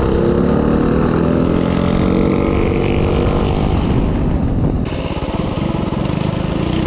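Small minibike engine running, its pitch sinking slightly in the first seconds. The sound changes abruptly about five seconds in, becoming rougher and more even.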